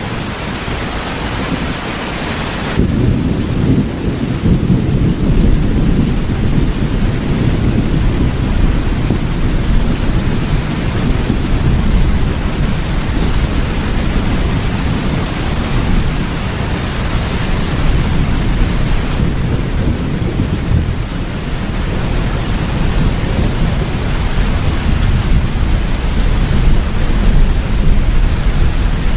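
Steady rain with a long low rumble of thunder that swells about three seconds in and rolls on, easing for a moment about two-thirds of the way through.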